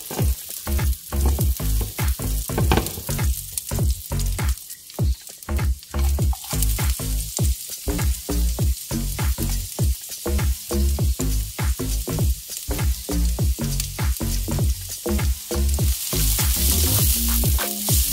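Chopped garlic and julienned ginger sizzling in hot coconut oil in a nonstick frying pan, with a quick run of crackling pops. About two seconds before the end the sizzle turns louder and steadier as the pan is stirred.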